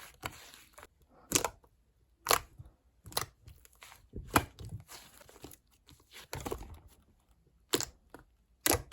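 Handling noises: scattered sharp clicks and short crinkling rustles, roughly one a second, at irregular spacing.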